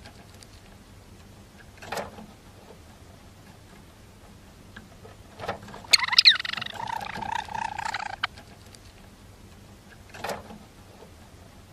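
Male Java sparrow singing its courtship song: one burst of chattering notes about six seconds in, lasting about two seconds and opening with a sharp high note. A few short soft clicks come before and after it.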